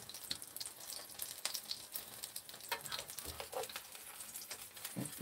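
Kimchi pancake frying in oil in a pan: a steady sizzle with scattered crackles and pops.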